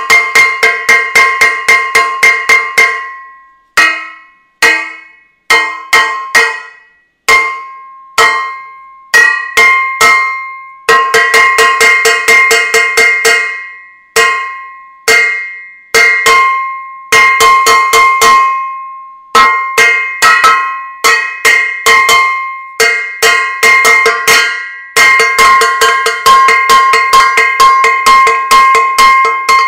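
A metal saucepan being banged: quick runs of clanging strikes, several a second, broken by short pauses. Each strike rings on with a steady metallic tone.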